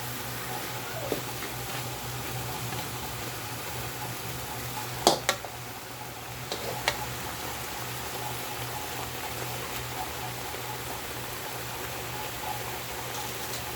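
Steady kitchen hum and hiss during cooking, with a sharp click or clink about five seconds in and another about two seconds later.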